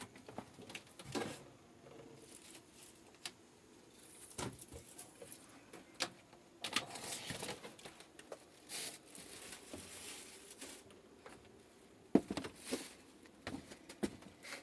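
Irregular light clicks, knocks and rustling in a small room, with a few sharper knocks about twelve seconds in.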